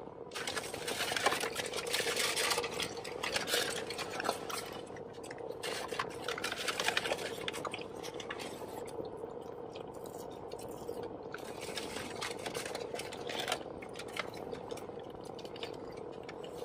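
Close-up chewing of a crunchy fried chicken sandwich: a run of crisp crunches and mouth smacks, densest in the first half, over a faint steady hum.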